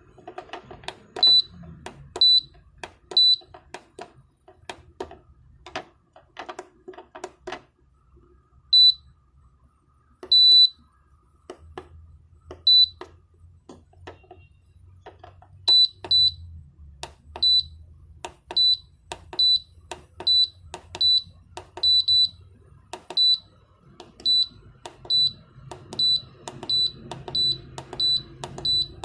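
Dehumidifier control board's buzzer giving short high beeps, a few scattered at first and then a steady run of about one every 0.7 s from about halfway, with sharp clicks between them and a low hum underneath.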